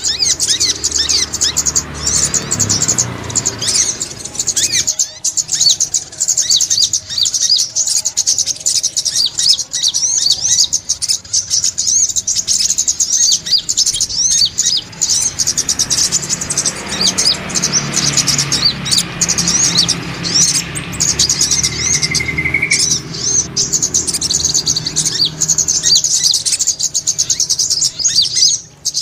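Sunbird (sogok ontong) twittering without pause: a dense stream of rapid, high, thin chirps.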